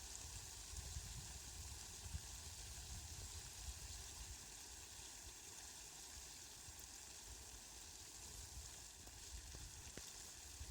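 Rain falling steadily: a faint, even hiss with a few light drop ticks.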